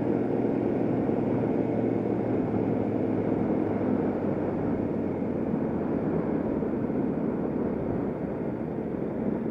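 Motorcycle engine running at low speed, heard from on board the bike, with a steady hum that eases off and gets a little quieter after about four seconds.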